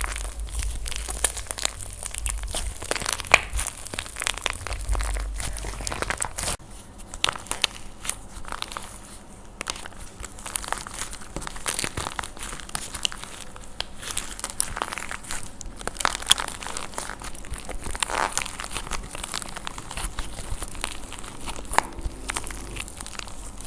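Dry plaster clay being crushed and cracked by hand: a dense, continuous run of crunching and crackling with sharp snaps scattered through it.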